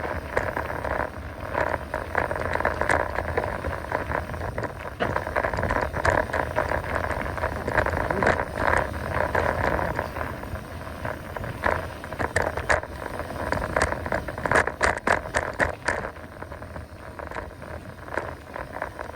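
Mountain bike riding down a trail: steady rolling noise with frequent rattles and clicks from the bike, a quick flurry of them about fifteen seconds in.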